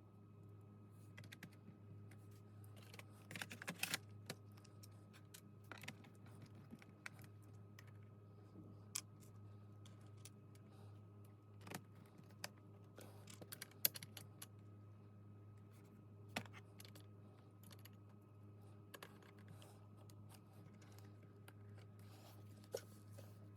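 Scattered key clicks and brief bursts of typing on a laptop keyboard, faint, over a low steady hum.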